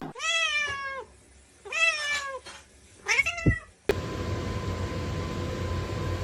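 A kitten meowing three times, each a high call that falls slightly at the end. About four seconds in, it cuts off and a steady hiss with a faint steady hum follows.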